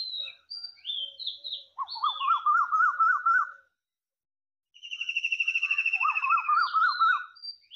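Birds chirping and singing. Short sharp falling chirps come again and again, a quick wavering trill sounds twice, and a long, rapidly pulsing note runs through the middle.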